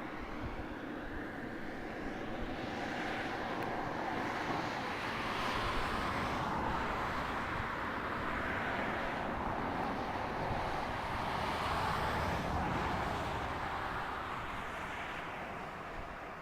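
Distant roar of a Delta II rocket's engines climbing away after launch, a steady rumble that grows louder through the middle and fades near the end.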